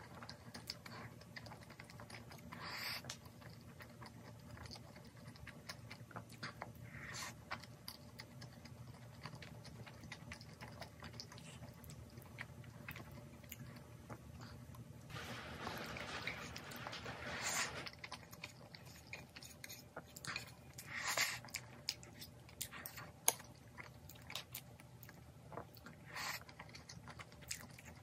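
Close-miked eating sounds: chewing soft tteokbokki rice cakes and cheese, with small clicks of chopsticks against the bowl. A longer, louder stretch of mouth sounds comes about halfway through.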